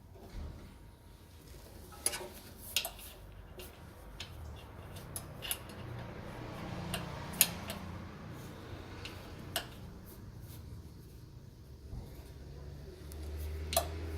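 Scattered sharp metallic clicks and clinks, like metal tools and parts being handled, the loudest about halfway through.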